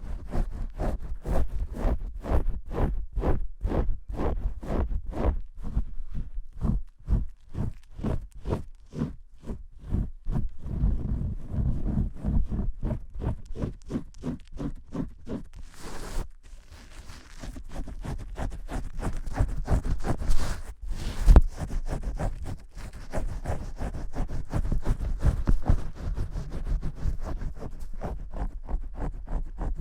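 ASMR hair-washing sounds: fingers scrubbing vigorously, in rapid rhythmic strokes of about three a second, turning into denser, more continuous scratching and rubbing about halfway through.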